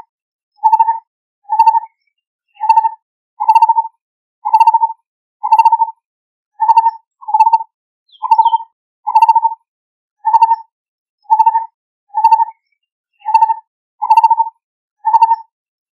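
Lineated barbet calling: a long series of short, low notes repeated evenly, a little more than one a second. A faint brief higher chirp comes about halfway through.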